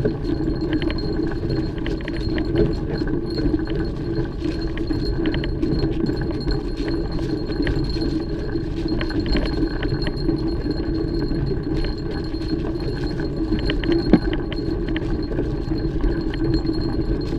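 Mountain bike being ridden over rough trail: a steady rumble with frequent small metallic clinks and rattles from the bike.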